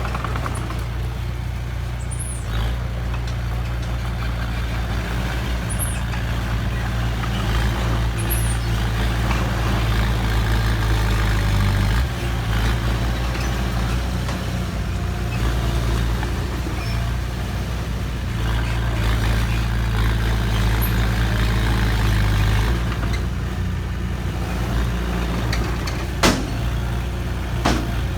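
Heavy truck diesel engine running with a steady low drone, its note shifting twice along the way. A single sharp click near the end.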